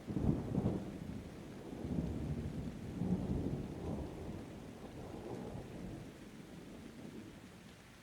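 A thunder rumble over steady rain. It breaks in suddenly, rolls on in several low swells, and slowly dies away near the end, leaving the rain hiss.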